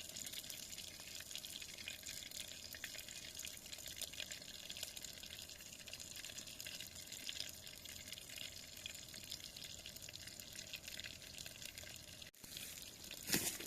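Running river water, a steady rushing hiss dotted with many small ticks and crackles. There is a sudden break near the end, followed by two louder clicks.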